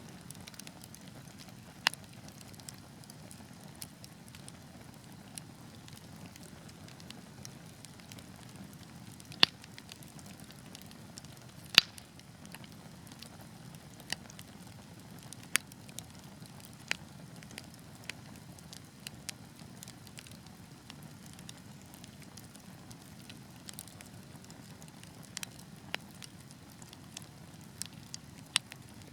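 Wood fire burning with a steady low rush and scattered sharp crackles and pops of burning logs, a few of them much louder than the rest.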